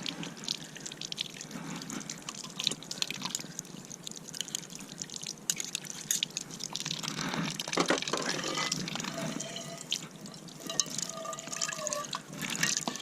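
Dishes washed by hand under a small faucet on a water jug: water dripping and trickling, with scrubbing and the clicks and clinks of cookware being handled.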